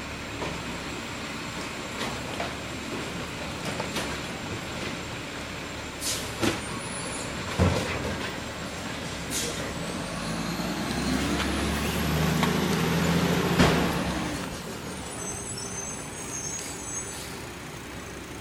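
Garbage truck engine running, with several sharp knocks and hisses, then speeding up about ten seconds in with a whine that rises and falls before it settles again.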